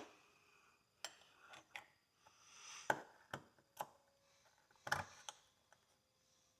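A hand tool picking and scraping at a rusty horseshoe to lift rust and caked dirt: irregular light clicks and ticks with a few short scrapes, faint overall.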